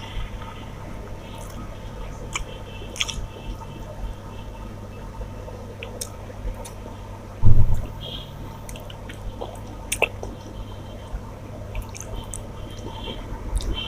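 Eating by hand: wet squishing of rice being mixed with curry, and chewing, with scattered small clicks over a steady low hum. One low thump comes about halfway through.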